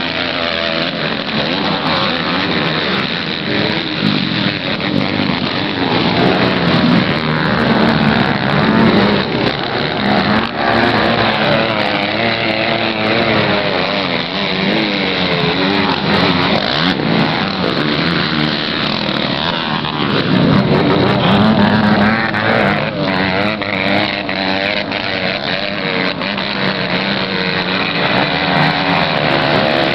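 Several motocross bikes running on the track, their engines revving up and down as they accelerate and shift, the notes overlapping throughout.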